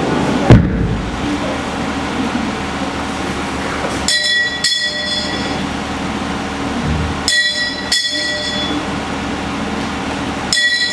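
A metal bell struck twice in quick succession, three times over at about three-second intervals, with clear ringing tones. There is a loud thump about half a second in and a steady murmur of a gathering underneath.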